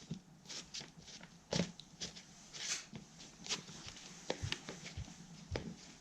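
Spatula scraping and tapping as it works stiff two-part epoxy, in irregular short scrapes, clicks and light knocks.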